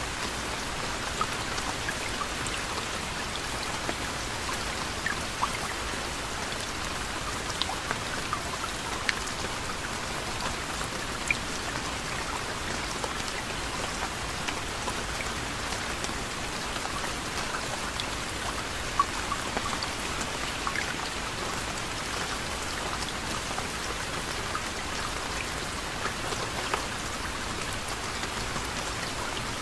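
Steady soft rain falling, an even hiss with many individual drops pattering and ticking on a surface.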